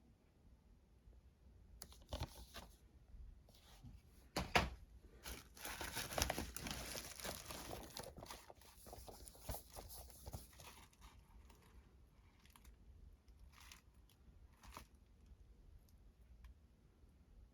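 Packaging being torn open and crinkled by hand, a run of crackling tears that is loudest in the first half, then a few small rustles and clicks.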